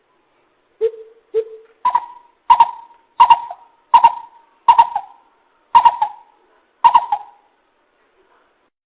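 Coucal decoy call: two soft low hoots, then a run of seven louder, higher hoots about every two-thirds of a second. It is a recorded bìm bịp call played to lure wild coucals.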